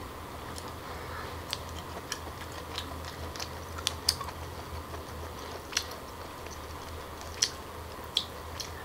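Close-miked mouth sounds of chewing firm steamed abalone: irregular sharp wet clicks, a dozen or so, the strongest a few seconds apart, over a low steady hum.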